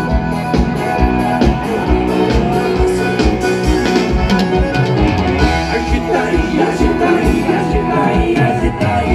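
Live sertanejo band music with a steady drum beat and guitar, with some singing.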